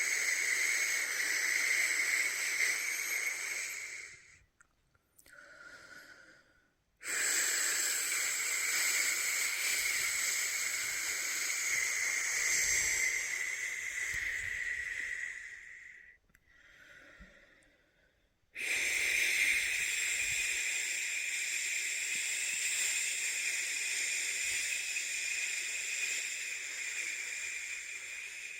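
A person's long, steady 'shhh' shushing, held for about ten seconds at a time and broken twice by brief pauses with a faint breath in between. This is the shushing used to soothe a newborn to sleep.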